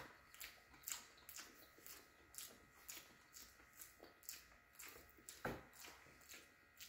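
Faint close-up chewing of a mouthful of soft chicken sandwich: irregular wet mouth clicks and lip smacks, two or three a second, with a louder one about five and a half seconds in.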